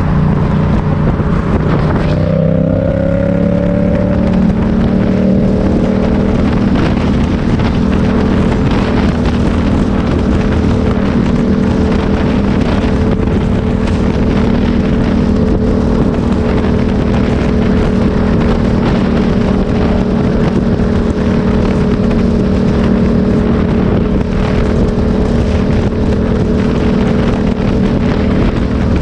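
Motorcycle engine running under way, with wind noise on the microphone. The engine's pitch shifts about two seconds in, then holds steady at cruising speed.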